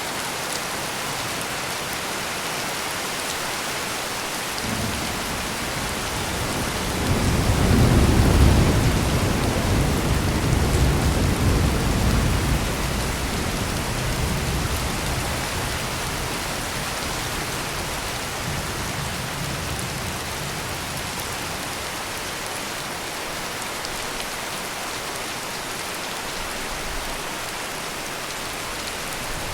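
Heavy rain pouring steadily, with a long low roll of thunder. The thunder starts faintly about five seconds in, peaks a few seconds later and rumbles away over the next ten seconds or so.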